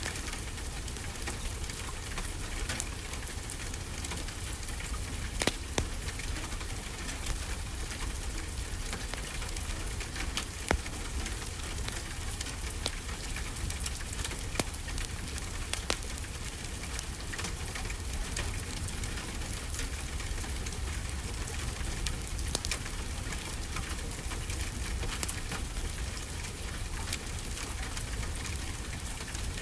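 Steady rainfall mixed with a crackling wood fire: an even wash of rain with frequent small clicks and pops, and a few louder snaps.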